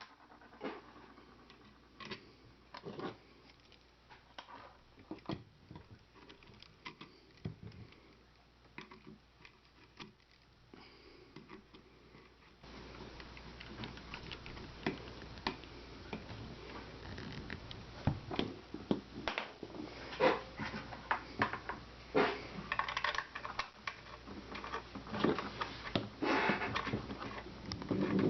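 Scattered light clicks and knocks of metal rifle parts and tools being handled while a Lee Enfield No.4 is reassembled into its stock. The background hiss steps up about halfway through.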